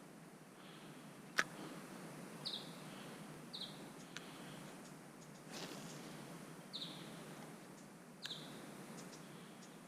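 A bird giving four short, high chirps a second or more apart over faint background noise. There is one sharp click about a second and a half in.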